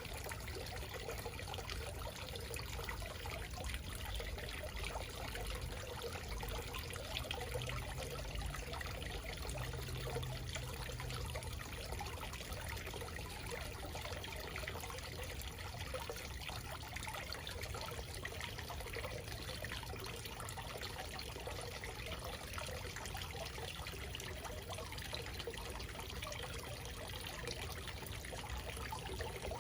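Small backyard waterfall: water trickling and splashing steadily.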